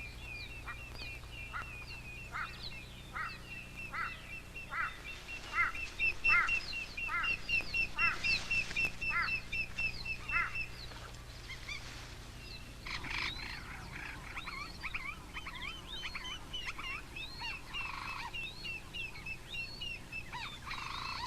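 Wild birds calling: a call repeated about once every 0.8 seconds over a steady high trill for the first ten seconds, then a busier mix of short chirps.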